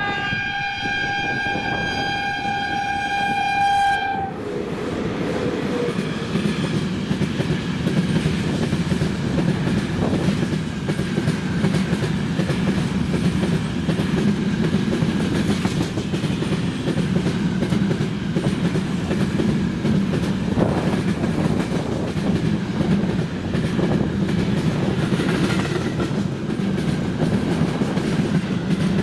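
A VL80S electric locomotive sounds its horn in one long, steady blast of about four seconds. A freight train of gondola cars then rumbles past, its wheels clacking over the rail joints.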